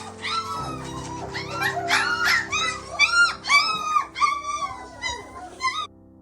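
Three-week-old German Shepherd puppies whining and yelping over and over in short, high, rising-and-falling cries, with music underneath. The cries cut off suddenly near the end, leaving only the music.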